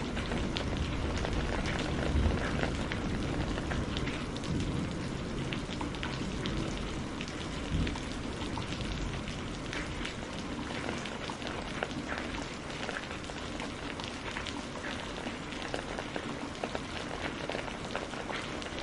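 Steady rain falling, with many individual drops ticking on a surface. A low rumble under it in the first few seconds dies away.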